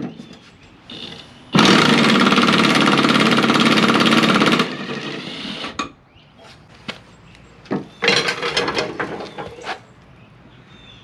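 Impact wrench hammering on a mower deck's spindle nut in a burst of about three seconds, then a shorter burst later, with a few metal knocks near the start. The spindle turns with the nut, so the nut does not come off.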